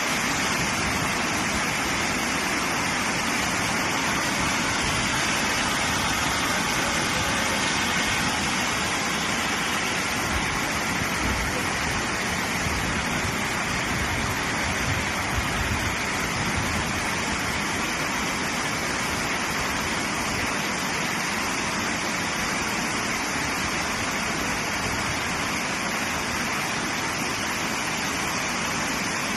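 Overflowing lake water pouring over a dam spillway in flood: a steady, unbroken rushing of water.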